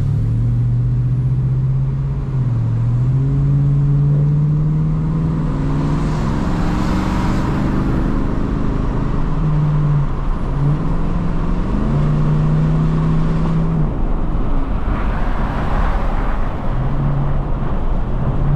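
Ford Mustang's engine on the move, its pitch climbing and dropping back several times as the car accelerates and eases off, over steady road rumble.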